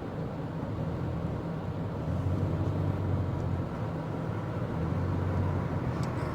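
Steady engine and road noise inside a van cruising on a highway: a constant low hum under a broad rushing hiss.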